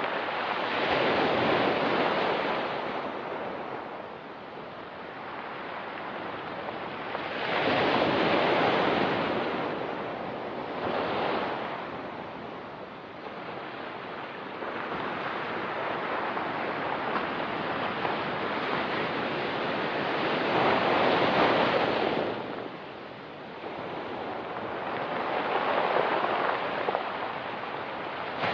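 Ocean surf breaking and washing on a pebble beach. It comes in surges every few seconds, each swelling and then fading, with a longer, louder wash in the second half.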